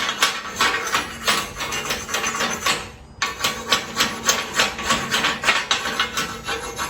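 Hammer driving a chisel along the edge of torch-cut quarter-inch steel plate to knock off the slag, in sharp metallic blows about three a second, with a brief break about three seconds in.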